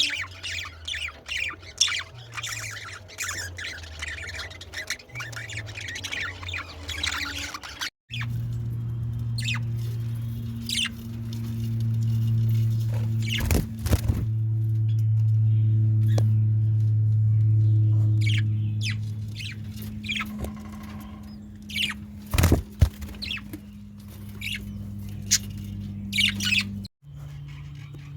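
Birds squawking and chirping, many quick high calls overlapping for the first several seconds; after a sudden break, a steady low hum with scattered single squawks, sharp clicks and wing flaps.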